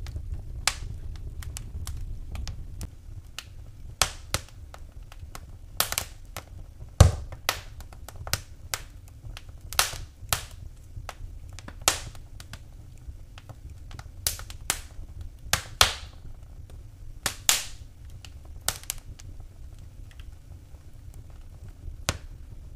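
Wood fire in a fireplace crackling, with sharp irregular pops and snaps a few times a second, the loudest about seven seconds in, over a steady low rumble.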